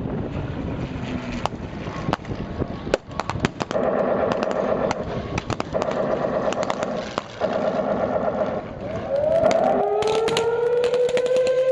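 Mock air battle: sharp bangs and three rattling bursts of simulated gunfire over wind noise, then about nine seconds in an air-raid siren winds up and holds a steady wail.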